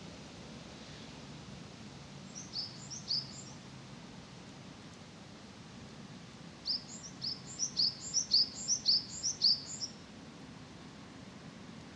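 A small bird calling in quick runs of short, high, falling chirps: a few notes about two and a half seconds in, then a longer run of about a dozen from about the middle, over a steady low background hum of park ambience.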